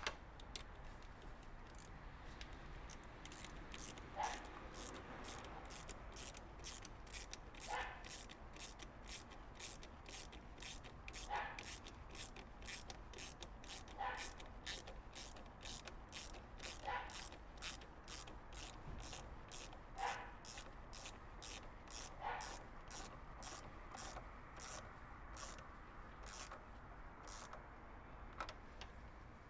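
Hand ratchet clicking steadily, about two to three sharp clicks a second, with a fuller click about every three seconds.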